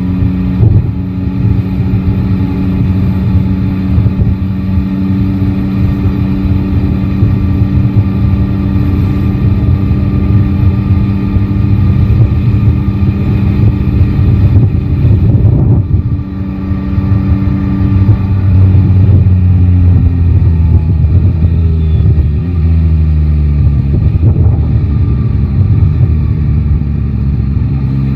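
Yamaha Tracer 9 GT's inline three-cylinder engine running at steady riding revs, with a brief break in the note about halfway through. Later the engine note falls over several seconds, then picks up again near the end, over a rumble of wind and road noise.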